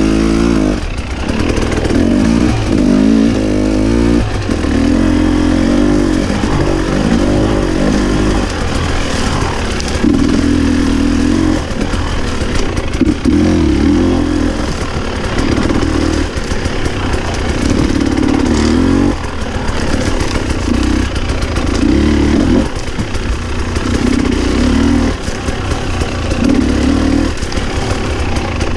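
Husqvarna TE 300i two-stroke enduro motorcycle engine being ridden, the throttle opened and closed in short bursts every second or two so the engine note keeps swelling and dropping back.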